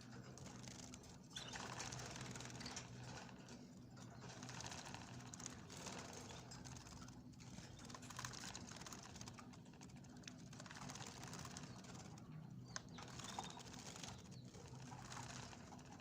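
Small cage birds bathing: splashing and fluttering their wings in a water bath, in bursts of a second or two with short pauses between, over a faint steady low hum.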